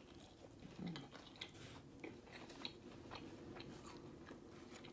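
Close-up mouth sounds of chewing crispy fried chicken: faint, irregular crunches and small wet clicks.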